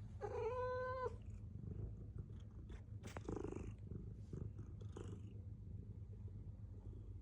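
House cat meowing once, a call of about a second near the start, over a steady low purr, with a few soft clicks and rustles after it.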